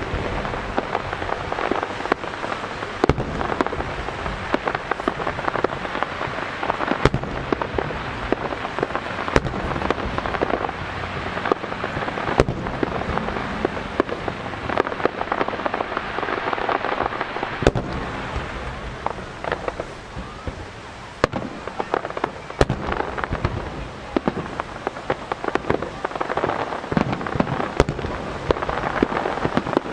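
Fireworks starmine barrage: aerial shells bursting in quick succession, sharp reports over a continuous crackle. It eases off briefly about two-thirds of the way through, then builds again.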